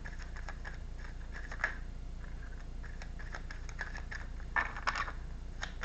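A deck of tarot cards being shuffled and handled by hand: a run of light card clicks and flicks, with a denser flurry about five seconds in, over a steady low hum.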